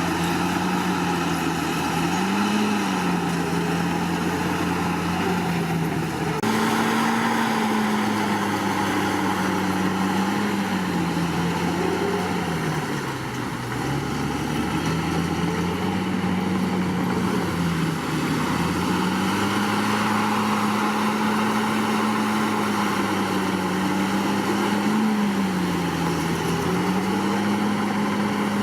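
Komatsu D61PX bulldozer's diesel engine running hard, its pitch sagging and recovering several times as the load changes, with an abrupt jump about six seconds in.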